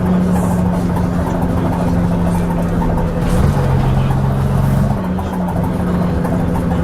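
Leyland Atlantean double-decker bus's diesel engine running, with clanking and rattling; the engine note drops about three and a half seconds in and rises again about five seconds in.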